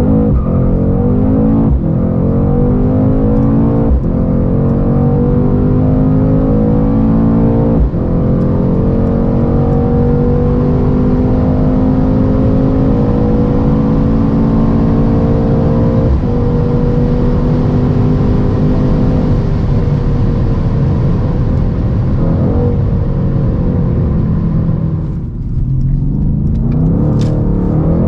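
Mercedes-AMG C63s twin-turbo V8 at full throttle, its pitch climbing through each gear with quick upshifts about 2, 4, 8 and 16 seconds in. After about 20 seconds the engine eases off, then revs up again near the end.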